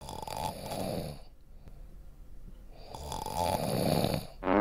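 Pig snoring: two long, rough snores about three seconds apart, then a shorter, louder rattling snore near the end.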